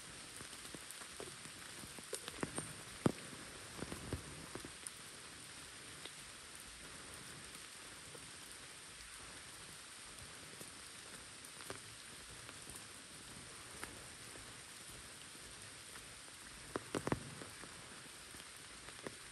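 Steady light rain falling on wet pavement and foliage, with scattered louder close taps of drops: a cluster about two to five seconds in, a few single ones in the middle, and another cluster near the end.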